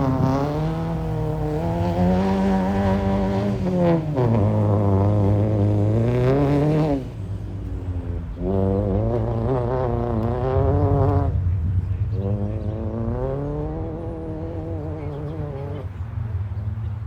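Volvo 740 Turbo's turbocharged four-cylinder engine under hard acceleration on a rally course, the revs climbing and then dropping sharply several times as the driver shifts and lifts off, notably about four and seven seconds in.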